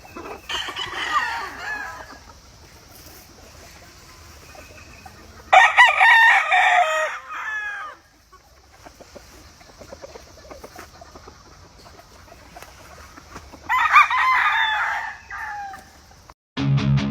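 Roosters crowing three times, a few seconds apart, each crow about two seconds long. A faint steady high hiss runs underneath, and guitar music cuts in near the end.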